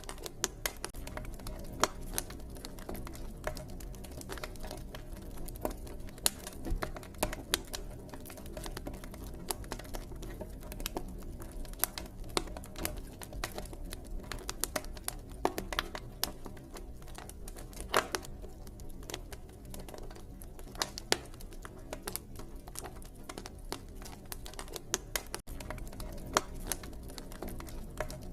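Campfire crackling: irregular sharp snaps and pops, several a second, over a low steady rumble.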